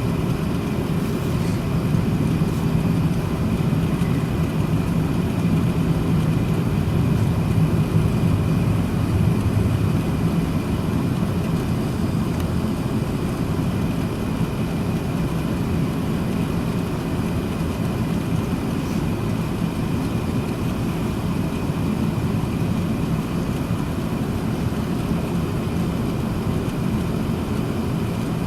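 Cabin noise inside an Airbus A380-861: a steady, loud drone from its Engine Alliance GP7200 engines and the airflow, with a faint high whine. The lowest part of the drone eases slightly about ten seconds in.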